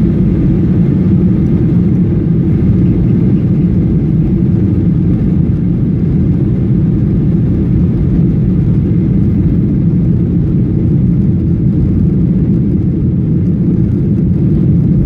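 Steady cabin noise inside a Boeing 737 in flight: an even, low engine drone and airflow, unbroken throughout.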